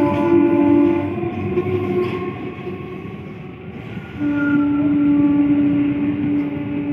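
Suburban electric multiple unit local train running past at speed, the coaches giving a steady rolling rumble. A single-tone train horn is sounding at the start, cuts off about a second in, and sounds again about four seconds in.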